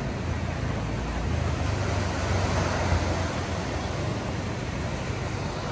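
Sea surf breaking on the beach, a steady rush of waves, with wind rumbling on the microphone.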